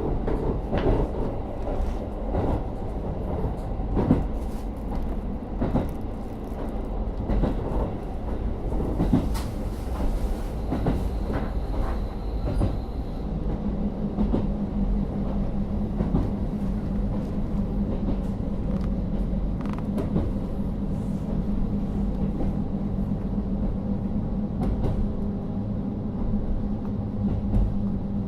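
KiHa 40 diesel railcar with an N-DMF13HZB engine running, heard from inside the car: low rumble and knocks of the wheels over the track. About halfway through, a steady low hum from the engine sets in.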